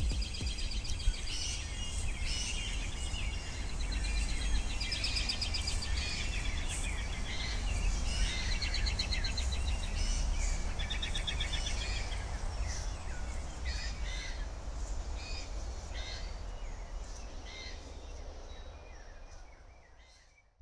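Several birds chirping and trilling over a steady low rumble, fading out near the end.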